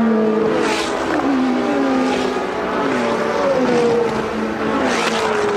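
Several 1982 Formula One cars racing past one after another, their high-revving engines overlapping, each engine's pitch falling as it goes by.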